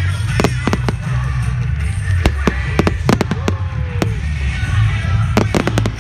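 Fireworks going off: sharp bangs and pops in irregular clusters, over music playing.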